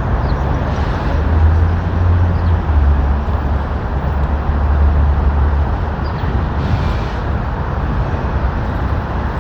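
City street traffic noise, with a deep rumble of a vehicle going by for several seconds in the middle.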